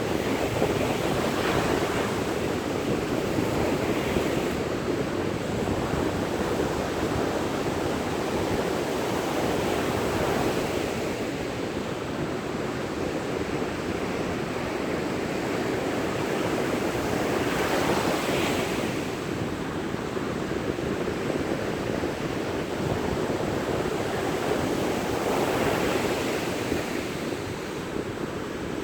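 Sea waves breaking and washing on the shore in a steady rush of surf, with swells of louder hiss as individual waves break, about a second and a half in, near 18 seconds and near 26 seconds. Wind buffets the microphone.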